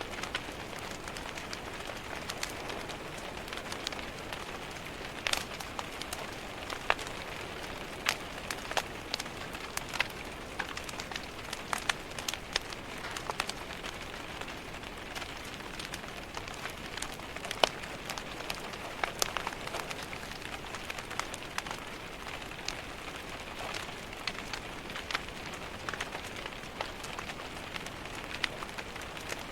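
Rain falling against a window pane with a wood fire crackling in a fireplace: a steady hiss of rain under irregular sharp pops and crackles.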